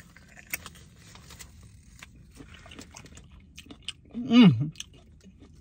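A person biting and chewing corn from a food truck, with many small wet crunches and clicks. About four seconds in comes a short voiced 'mmm' that falls in pitch.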